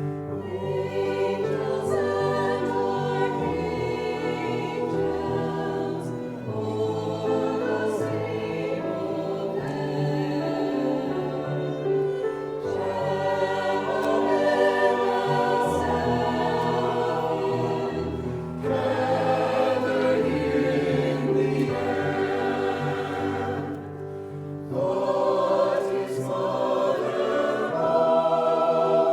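A choir singing with instrumental accompaniment, in sustained phrases with short breaks between them.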